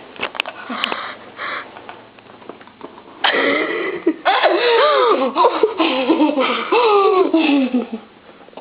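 People laughing hard: a loud burst of laughter breaks out about three seconds in and goes on for several seconds in high, breaking peals, trailing off near the end.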